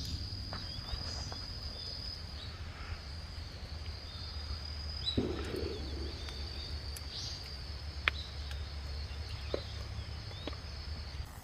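A steady high insect trill with faint bird chirps over a low rumble, broken by a few sharp cracks about 8 and 9.5 seconds in.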